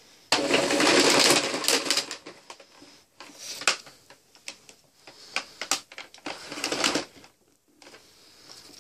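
Power cable of a Hoover Turbopower Boost upright vacuum being drawn in by its automatic rewind: a loud scraping rush for the first couple of seconds, then irregular clicks and rattles as the cable feeds in and catches.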